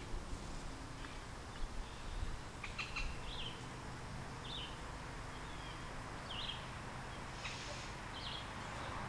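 Birds chirping in the yard: about half a dozen short, high chirps scattered through the middle of the stretch, over a steady background hiss of outdoor ambience.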